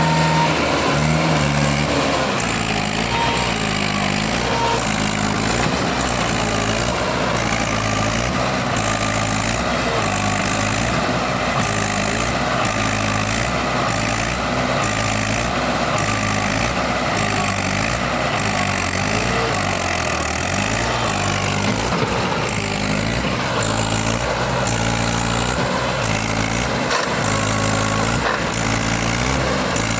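Mahindra tractor's diesel engine running hard as the tractor is stuck in mud, its note rising and falling over and over as it revs and labours.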